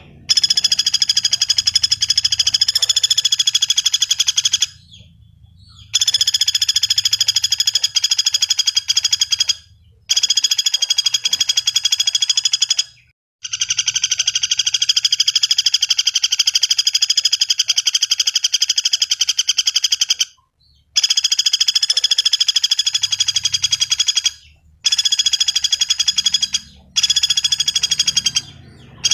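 Pelatuk bawang (flameback woodpecker) giving long, rapid rattling trills, a run of fast even notes held for several seconds at a time. About seven rattles follow one another, each broken off by a brief pause.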